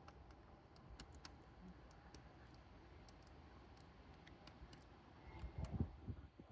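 Near silence with scattered faint clicks, and a brief soft low rustle or bump about five and a half seconds in.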